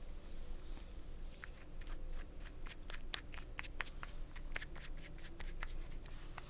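Quick, light clicking and tapping, several clicks a second, from small objects being handled close to the microphone. It starts about a second and a half in.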